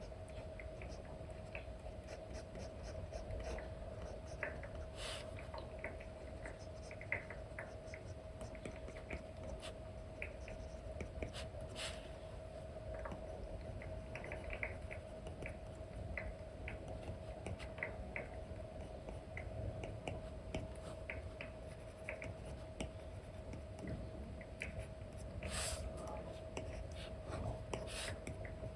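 Apple Pencil 2 with an Elecom nib tapping and stroking on an iPad's paper-like screen film: irregular light ticks and short scratches over a steady low hum.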